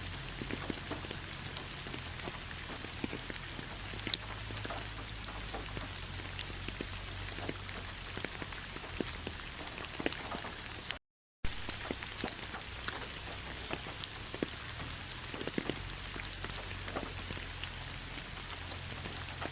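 Steady autumn rain falling on fallen leaves: a constant patter of many small drop ticks over a soft hiss. The sound cuts out completely for a fraction of a second about eleven seconds in.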